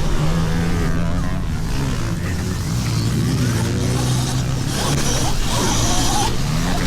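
Pit bike motors running, their pitch dropping about three seconds in and rising again near the end as the throttle changes, over a steady rush of noise.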